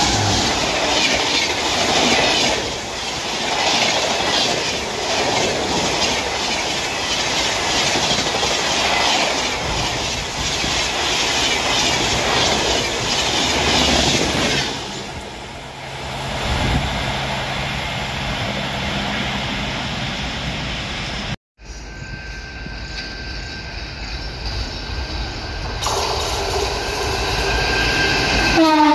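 Express train passing close at speed behind an electric locomotive: a loud rumble of coaches with a rhythmic clickety-clack of wheels over rail joints, dropping away after the last car goes by about halfway through. After an abrupt cut, a second electric-hauled passenger train approaches and sounds its horn for the last few seconds, the horn's pitch dropping as the locomotive passes.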